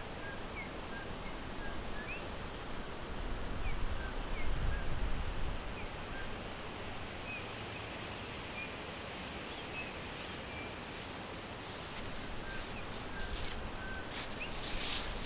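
Forest ambience: small birds giving scattered short, high chirps over a steady hiss of background noise. A low rumble swells around four to five seconds in, and rustling comes in near the end.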